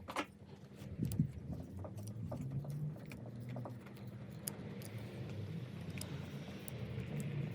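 A few light clicks in the first second, then a vehicle engine's low steady rumble that grows louder near the end.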